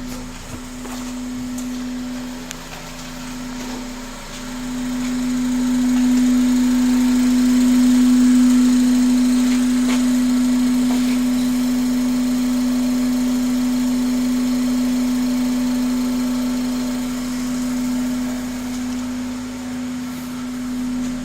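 A 2005 Honda Accord's 2.4-litre four-cylinder engine running steadily at idle, with a steady drone that gets louder about five seconds in.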